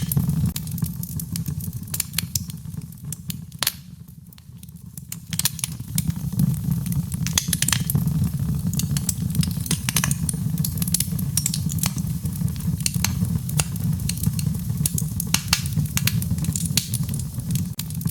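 Fire in a fireplace crackling: frequent sharp pops and snaps over a steady low rumble, briefly quieter about four seconds in.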